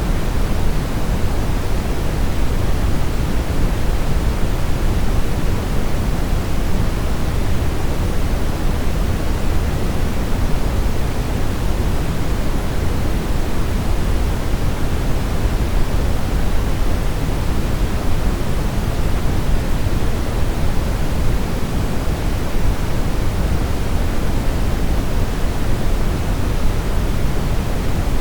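Steady synthetic brown noise: a constant, even hiss-like rumble weighted heavily toward the low end, with no changes or events.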